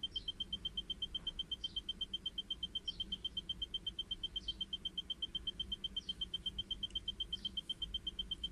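A high electronic beep pulsing rapidly and evenly, about seven times a second, with a faint short rising chirp roughly every second and a quarter.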